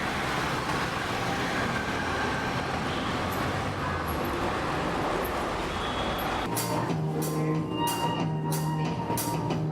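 Steady rushing noise of falling rain. About six and a half seconds in, background music with a regular beat starts over it.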